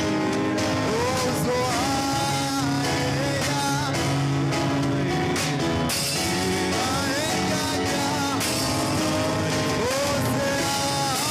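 Church worship music played by a band, with a voice singing a gliding melody over steady held chords.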